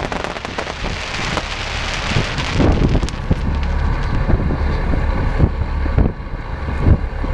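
Dense crackling hiss that dies away about three seconds in, then a boat's engine rumbling low under wind buffeting the microphone, with irregular thumps.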